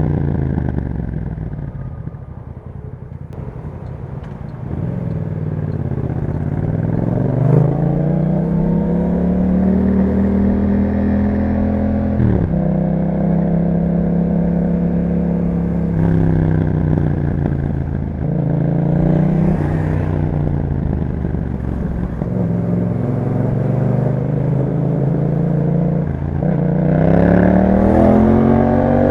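2021 Yamaha MT-07's parallel-twin engine through an Akrapovic exhaust, ridden on the road. The engine note first falls as it slows, then rises several times under acceleration, with sudden drops in pitch at the gear changes and easing off in between.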